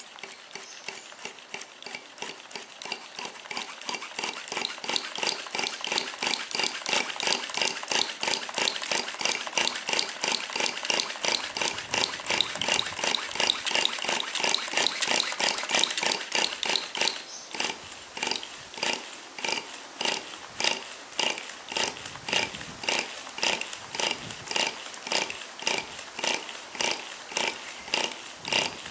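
Glow-fuel engine of a Tamiya TGS 1/10 RC car turned over with its glow plug removed, after oil spray was put into the cylinder to keep the piston from seizing. It makes a rhythmic puffing that is faster and louder in the first half and slows to about three puffs a second about two-thirds of the way in.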